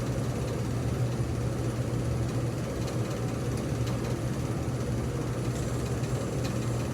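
A motor running steadily with a low, even hum that does not change.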